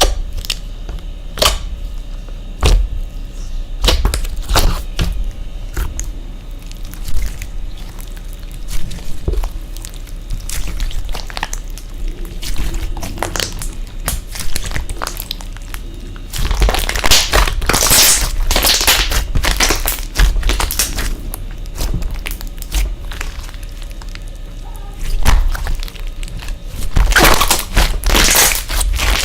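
Slime being squeezed and poked by hand, giving many sharp clicks and crackles from popping air bubbles. There are two louder, denser runs of crackling, about halfway through and near the end.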